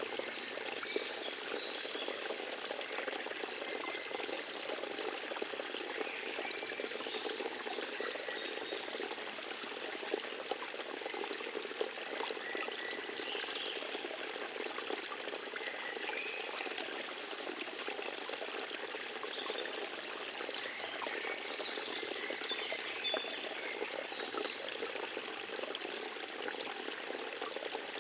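A small forest stream trickling and splashing steadily over stones, with faint short high chirps scattered over it.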